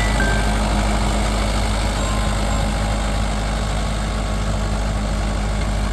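Mahindra 575 DI XP+ tractor's diesel engine running steadily.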